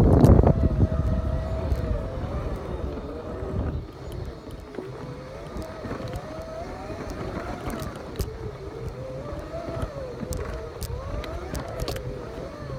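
Segway's electric motors whining, the pitch wavering up and down as it rides over rough dirt, with a low rumble that is heaviest in the first couple of seconds and scattered clicks and knocks.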